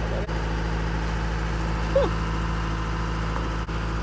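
Sailboat's engine running steadily under way, a continuous low drone. A brief short gliding sound stands out over it about two seconds in.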